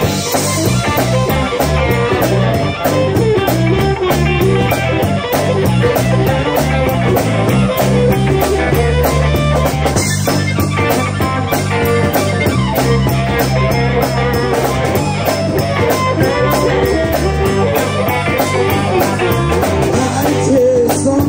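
Live blues-rock band playing an instrumental break: electric guitar over bass and drum kit.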